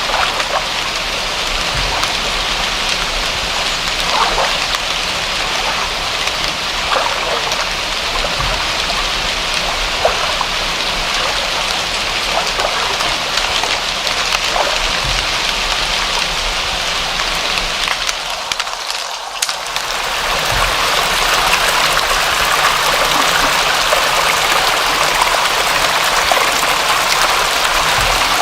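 Steady rain with scattered drops landing nearby. About two-thirds of the way in, it dips briefly and gives way to a denser, even rush of water.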